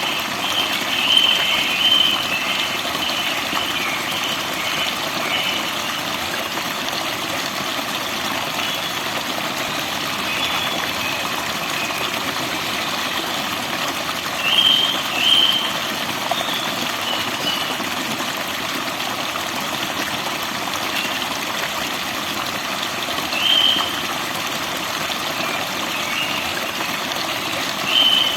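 Forest birds chirping in short bursts over a steady rush of running water. There is a cluster of calls in the first two seconds, two quick calls about halfway through, another a little later, and one more near the end.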